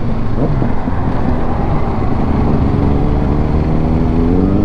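Kawasaki Ninja 650's parallel-twin engine running under way, its pitch climbing slowly through the second half as it accelerates.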